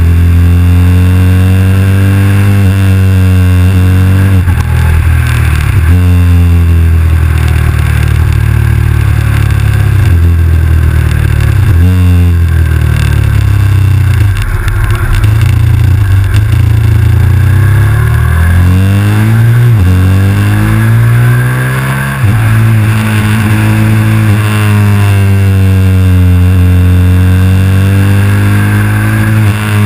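KTM 990 SMR's V-twin engine pulling hard, its pitch climbing and then dropping sharply at each upshift several times. Midway it falls away steadily as the bike slows, then climbs again through the gears.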